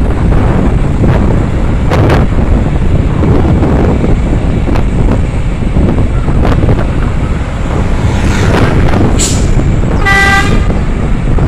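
Loud low rumble of road vehicles and wind on the microphone, with a vehicle horn sounding one steady blast of about a second near the end.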